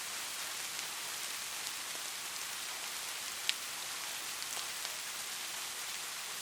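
Light rain falling steadily: an even hiss scattered with small drop ticks, and one sharper tick about halfway through.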